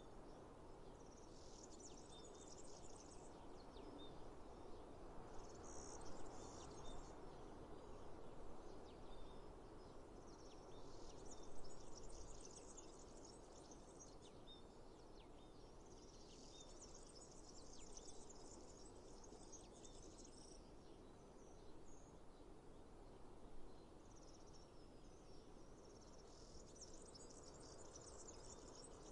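Faint insects chirping in high-pitched trills that come and go every few seconds, over a steady low outdoor hiss.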